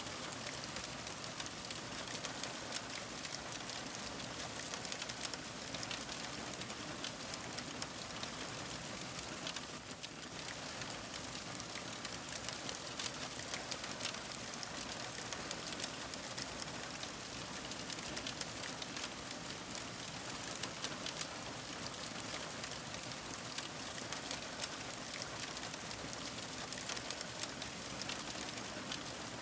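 Wood fire crackling: a steady hiss dotted with many small, quick pops and snaps.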